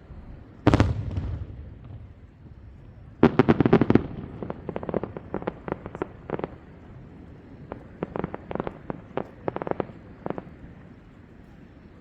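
Aerial fireworks shells bursting: one loud boom about a second in, then a rapid cluster of bangs around three seconds, followed by a run of scattered sharper pops that ends about ten seconds in.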